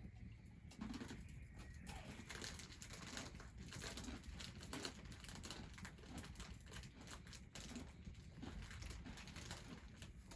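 A dove cooing faintly a few times, low and soft, amid scattered faint clicks.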